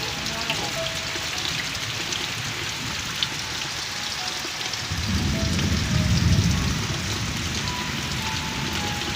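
Heavy monsoon rain pouring down in a steady downpour. About halfway through, a low rumble swells for a couple of seconds and then dies back.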